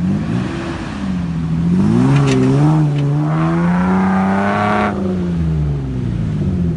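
Four-wheel-drive vehicle's engine revving hard under load on a sand dune climb. Its pitch rises, dips, climbs again and holds high for a couple of seconds, then falls away about five seconds in.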